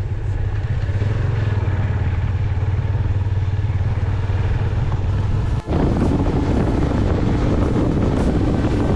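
Motorcycle engine running steadily with a low drone. About two-thirds of the way through the sound cuts abruptly to a louder, rougher rush of the bike under way, with wind on the microphone.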